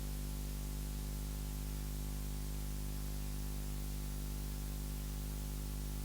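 Steady electrical mains hum with a faint hiss from the sound system, unchanging throughout.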